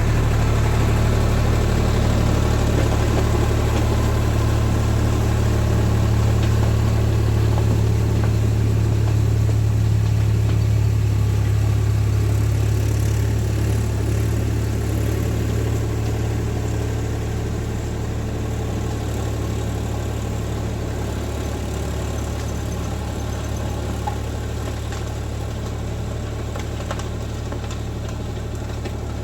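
Tractor engine running steadily with a low drone, growing gradually fainter over the second half.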